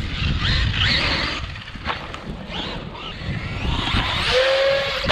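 Traxxas MAXX 4s RC monster truck's electric motor and drivetrain whining up and down in quick bursts of throttle, over a rumble of wind on the microphone. Near the end the whine holds a steady pitch for about half a second.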